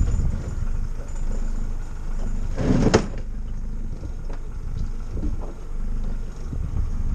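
Motorboat underway: a steady low rumble of the engine and the hull on the water, with a brief louder rush of noise about three seconds in.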